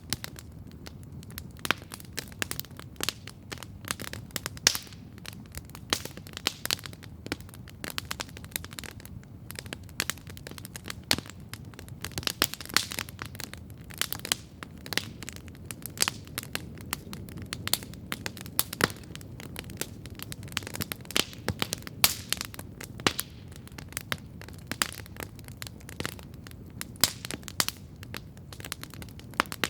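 Wood campfire crackling steadily, with irregular sharp pops and snaps over a low, soft hiss of the burning fire.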